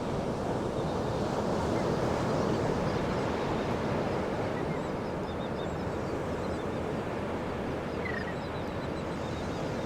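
A steady rushing outdoor ambience, with faint, scattered high-pitched bird chirps above it and one clearer chirp near the end.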